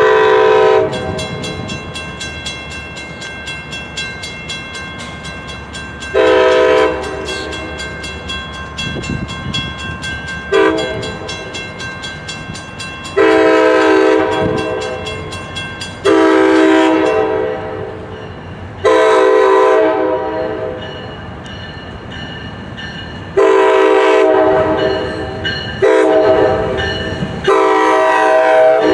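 MARC MP36PH-3C diesel locomotive sounding its horn in a series of about nine blasts, some short and some long, over the steady rumble of the approaching train.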